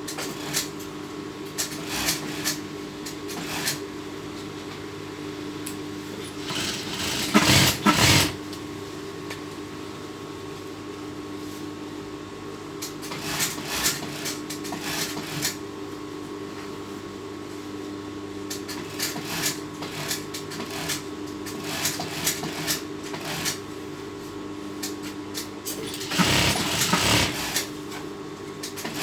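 Sewing machine stitching a seam: a steady motor hum underneath, scattered clicks, and two louder runs of stitching, one about a quarter of the way in and one near the end.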